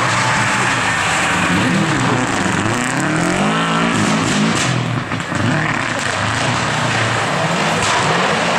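Rally car engine revving hard through the gears as it passes at speed, its pitch climbing and dropping with each shift. It lifts off briefly about five seconds in, then comes back on the throttle.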